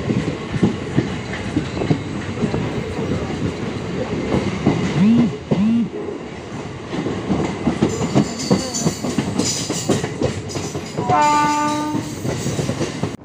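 MEMU electric passenger train running, its wheels clattering over the rail joints in a fast stream of clicks. Near the end a horn sounds one steady note for about a second.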